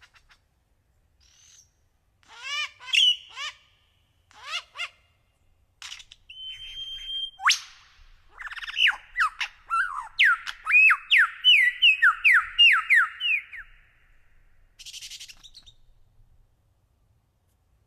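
A songbird singing in broken phrases of chirps and whistles. In the middle it builds to a quick run of about a dozen sharp down-slurred whistled notes, and a last faint phrase follows near the end.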